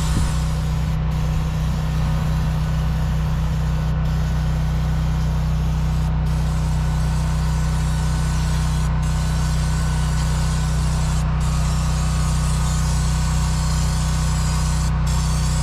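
Generator and air compressor engines running with a steady low hum, under a hiss of spraying as the loader's engine is cleaned with brake cleaner and compressed air.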